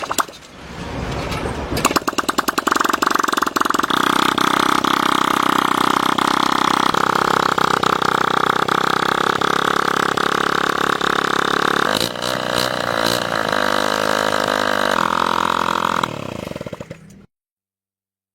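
1986 Honda C90's single-cylinder four-stroke engine starting and revving up over the first couple of seconds, then running fast and steady. Its note changes about twelve seconds in, drops near the end and cuts off suddenly.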